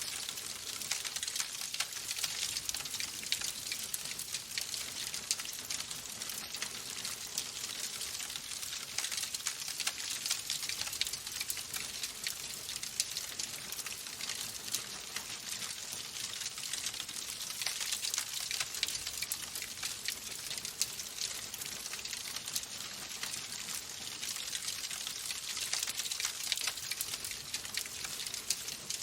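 Wood fire burning in a fireplace, crackling steadily: a constant hiss dotted with many small sharp pops.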